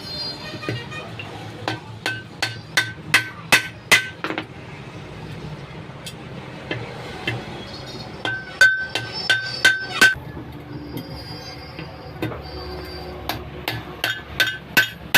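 Hammer blows on steel truck brake parts during a brake shoe change, in three runs of quick strikes, about two or three a second. Each blow gives a short metallic ring of the same pitch.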